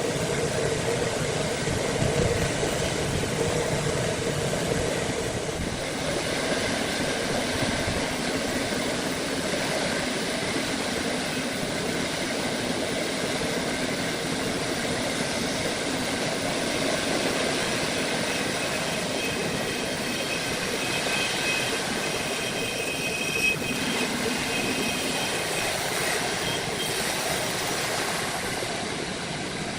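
A machine running steadily: a continuous mechanical drone and hiss, with a faint high whine added about two-thirds of the way in.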